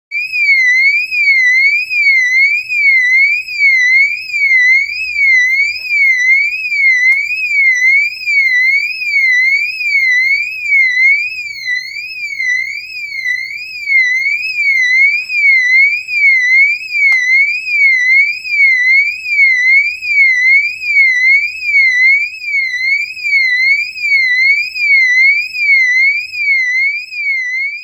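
Electronic siren of a solar-powered PIR motion-sensor alarm light: a loud, high-pitched wail that sweeps evenly up and down a little more than once a second. It starts abruptly, as when the motion sensor is triggered.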